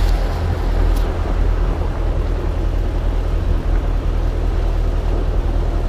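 Tractor engine running steadily, a continuous low drone with rattling noise above it.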